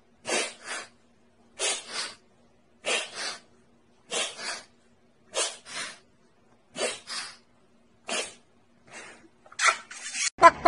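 An animal makes about eight sneeze-like double huffs, one pair roughly every second and a bit, with a faint steady hum underneath.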